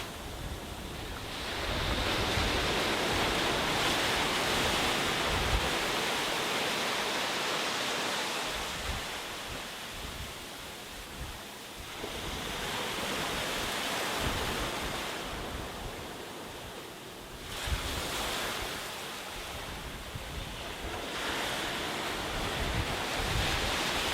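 Sea waves breaking and washing up a beach, the surf swelling and ebbing every few seconds, with wind rumbling on the microphone.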